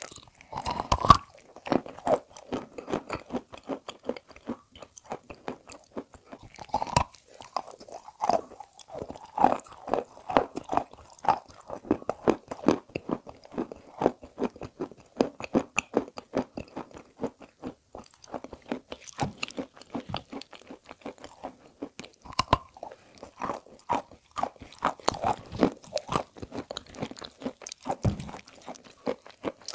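Close-miked crunching and chewing of a chalk block coated in wet edible clay paste: sharp bites that crack the chalk, followed by continual crackling chews.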